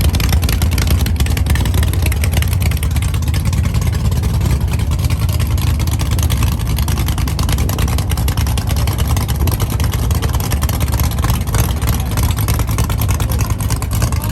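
Car engine running at idle with a steady low rumble.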